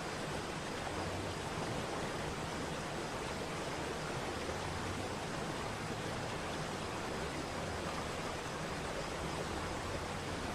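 Waterfall: steady rushing of falling water, an even noise that does not change.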